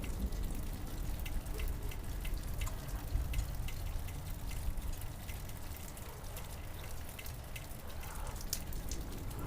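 Rain dripping and pattering in irregular drops, over a steady low rumble.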